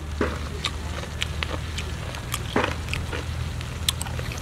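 Mouth sounds of someone eating snail meat: scattered soft clicks and smacks of chewing, a few a second, over a steady low hum.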